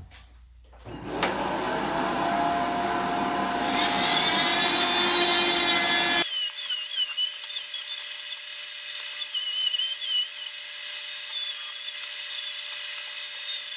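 Vacuum cleaner switched on, its motor spinning up over a few seconds and then running steadily. About halfway through the sound changes abruptly to a thinner, high whine with wavering whistles.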